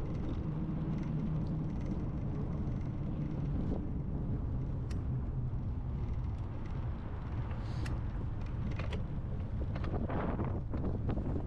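Wind rumbling on the microphone of a moving bicycle, a steady low rush, with a few sharp clicks and a louder gust about ten seconds in.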